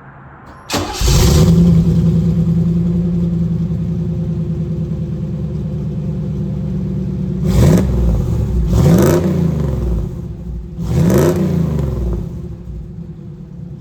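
A 1991 Camaro's 305 small-block V8, breathing through headers and a MagnaFlow exhaust with the catalytic converter deleted, fires up suddenly and settles into a steady idle. Later it is revved three times, each rev rising and falling back to idle.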